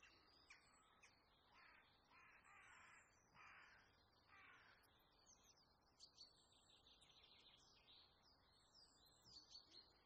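Faint outdoor birdsong: a run of about five lower calls, each about half a second long, in the first half, then quick high chirps and twitters from smaller birds through the second half.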